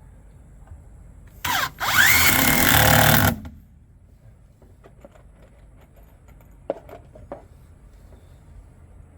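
Power drill run into wood in two goes: a short blip, then about a second and a half of steady running as the motor spins up. A few light knocks follow near the end.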